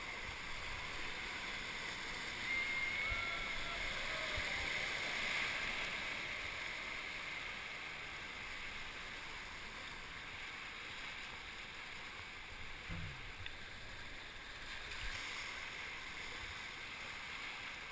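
Steady rush of river water around a drifting raft, a continuous even hiss of whitewater, with a few faint low knocks on the camera.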